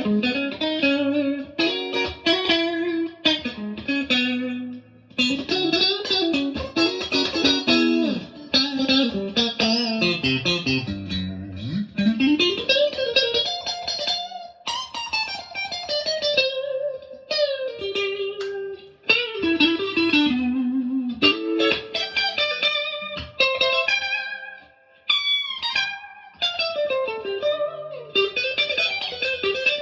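Stratocaster electric guitar played straight into a Marshall DSL40C valve amp: picked single-note phrases and chords with slides and bends, pausing briefly about five seconds in and again near twenty-five seconds.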